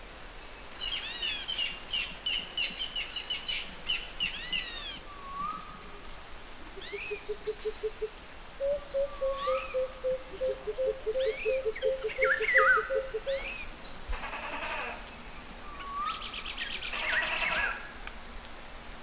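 Several birds singing and calling: quick whistled chirps and sweeping notes, a low rapid run of repeated notes in the middle, and harsh rasping calls near the end.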